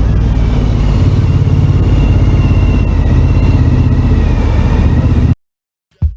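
Loud, steady engine drone with a deep hum and a faint high whine on top, cutting off suddenly about five seconds in.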